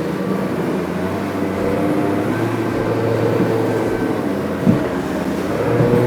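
An aluminium motorboat's outboard motor running steadily under way, with one short thump about two thirds of the way through, typical of the hull slapping a wave.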